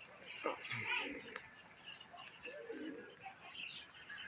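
Domestic pigeons cooing softly at the loft, with scattered short high chirps.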